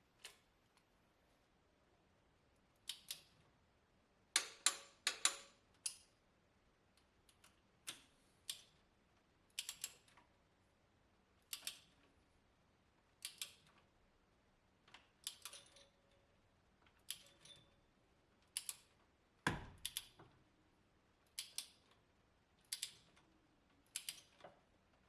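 Hand wrench on the BMW M52 engine's cylinder head bolts, clicking in short pairs or threes about every second and a half as the bolts are tightened, with one heavier knock about three quarters of the way through.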